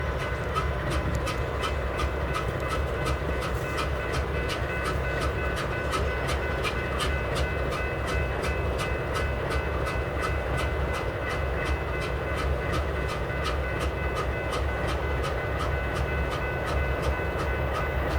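BNSF train rolling past with a steady low rumble, its wheels clicking evenly about three times a second, and a steady high ringing tone above.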